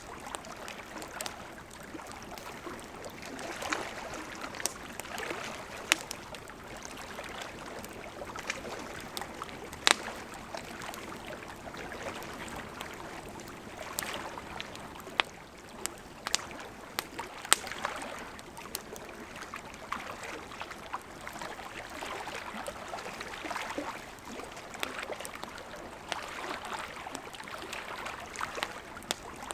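Gently flowing river water running steadily, with a wood campfire crackling over it: scattered sharp pops, a few of them much louder than the rest.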